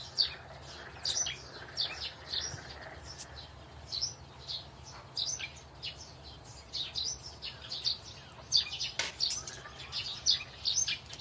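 Small birds chirping, short high chirps coming in quick clusters over and over, with a single sharp click about nine seconds in.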